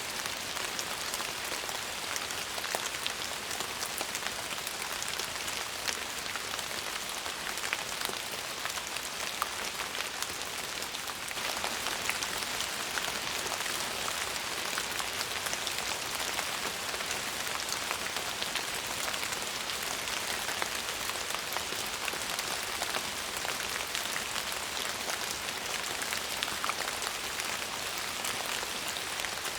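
Steady rain falling on a surface: a dense, even hiss scattered with the ticks of single drops, growing a little fuller about a third of the way in.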